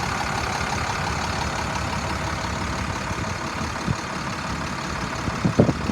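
International DT466 diesel engine of a 2007 International 4400 dump truck idling smoothly, with the power take-off engaged. There is a short thump about four seconds in, and a couple more near the end.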